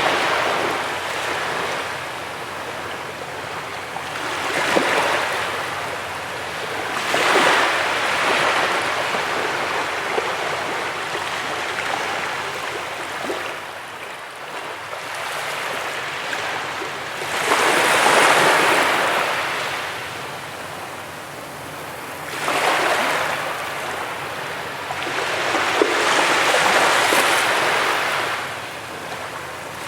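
Sea waves breaking and washing up a beach, the surf swelling and falling back in surges every few seconds, the largest about two-thirds of the way through.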